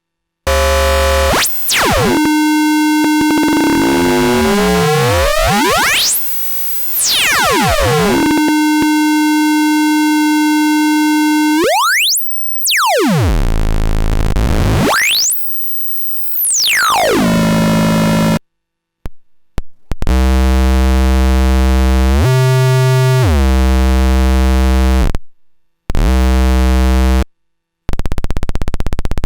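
Eurorack noise module built as a Jupiter Storm-style bank of square-wave oscillators, making electronic tones. Gliding, sweeping pitches rise and fall in the first half, with abrupt cut-offs to silence in between. These give way to low buzzing tones that step up and down in pitch, and a dense hiss near the end.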